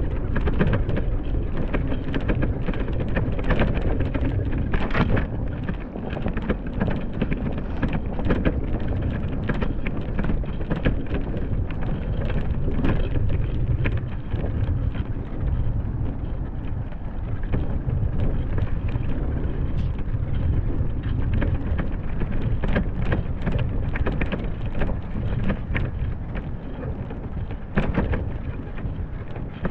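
Wind rumbling on the microphone of a camera riding along on a bicycle through snow, a dense steady rumble broken by frequent crackles and clicks.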